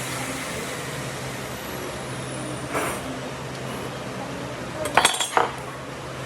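Steady workshop hum and hiss, broken by one sharp knock about three seconds in and a quick run of sharp knocks and clinks about five seconds in.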